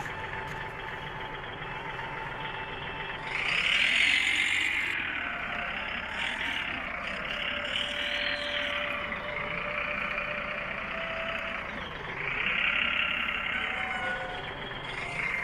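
Small electric motor and gearbox of a toy-scale machine whirring steadily. Its whine swells louder and higher about three times, as the load changes.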